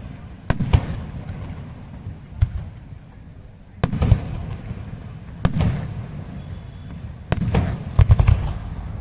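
Fireworks bursting one after another: sharp bangs a second or two apart, each followed by a low rumbling echo, with a quick cluster of bangs near the end.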